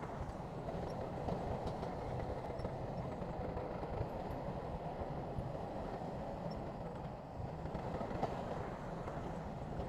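Heavy earthmoving machinery working: a diesel engine running steadily with a low, even mechanical rumble and a few faint clicks.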